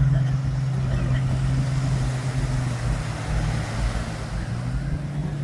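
An engine running steadily nearby at a low, even hum, over a background of street and beach noise.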